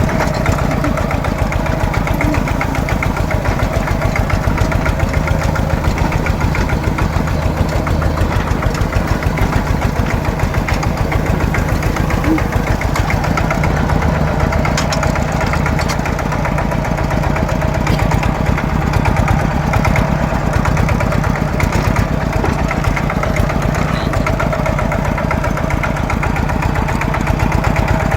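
Farm machinery engine running steadily at an even speed, with fast, regular firing pulses.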